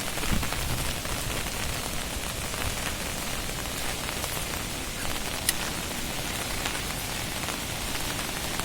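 Steady heavy rain falling, an even hiss with scattered sharper drop hits close by.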